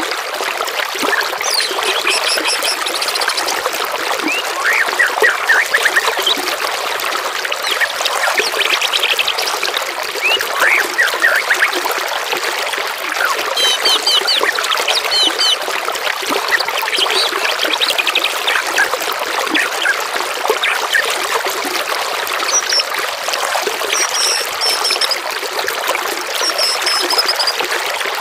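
Steady trickling water, with songbirds chirping and calling over it in quick series of short, high notes and rapid trills that come and go throughout.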